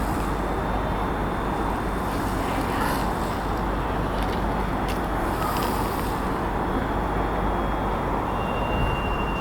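Steady rumble and hiss of an electric train at the station platform, with a faint high thin tone coming in near the end.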